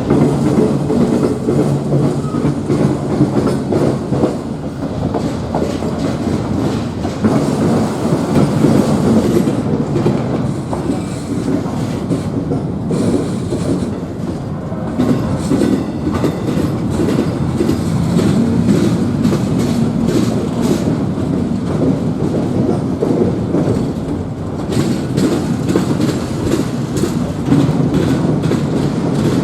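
A train's cars rolling past, a steady rumble with the wheels clacking over the rail joints throughout.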